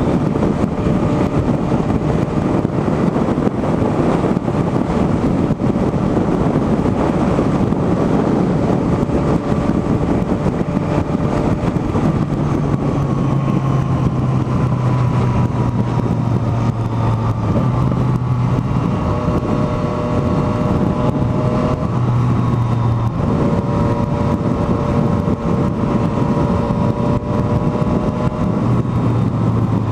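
Motorcycle cruising at highway speed: heavy wind rush with a steady engine drone under it, the drone's pitch stepping slightly up and down several times from about halfway through.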